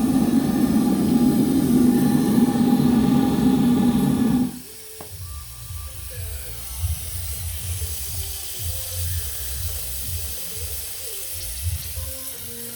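A steady machine-like running sound with several held tones cuts off abruptly about four and a half seconds in. What follows is quieter: an uneven low rumble and a faint high hiss.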